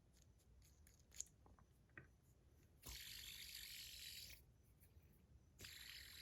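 Faint handling sounds of a stainless steel fidget spinner: a couple of light clicks, then two short spells of soft, high-pitched hissing.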